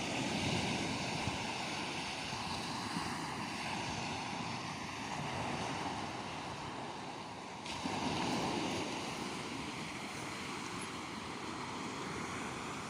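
Sea waves washing onto the shore, with wind on the microphone. A wave surges louder near the start and another about eight seconds in.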